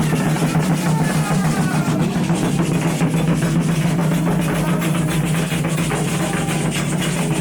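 Candomblé ritual drumming: hand drums played in a fast, dense, unbroken rhythm.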